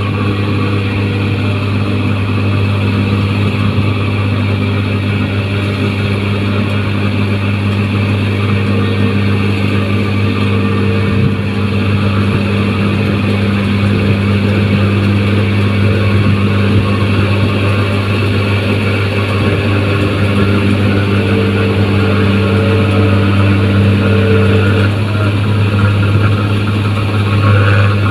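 Engine of a New Holland 1545 rice machine running steadily with a constant low hum, getting slightly louder near the end.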